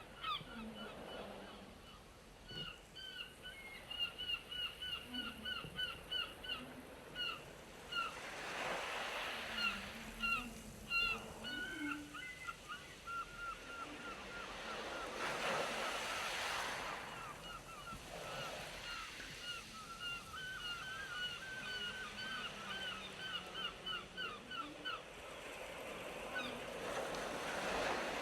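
Birds calling in long runs of short, rapidly repeated notes, several a second, over the wash of sea waves that swells up three times.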